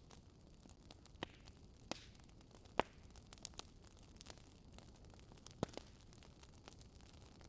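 Wood fire crackling: scattered sharp pops and snaps at irregular intervals, the loudest about three seconds in, over a faint steady hiss.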